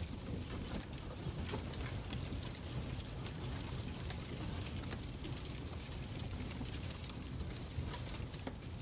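Crackling fireplace: a low, steady rumble of burning with scattered, irregular crackles and pops.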